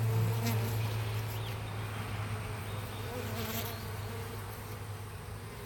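Honeybees buzzing in a steady hum that slowly grows fainter.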